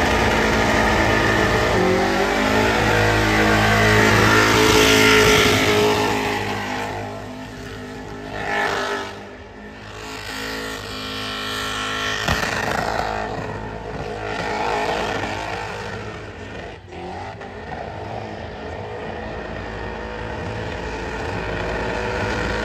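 Holden VH Commodore burnout car's engine revving hard, its revs rising and falling, with the rear tyres spinning on the pad.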